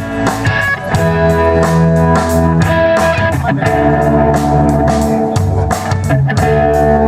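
Live rock band playing an instrumental passage between sung lines: guitar and held keyboard-like notes over bass, with drums and cymbals keeping a steady beat.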